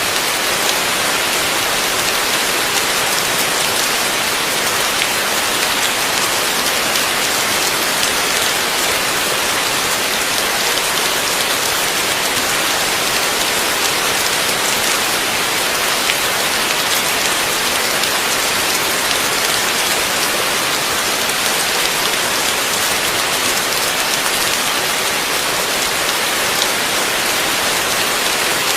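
Heavy rain falling steadily, a dense even hiss with fine pattering of drops on a surface.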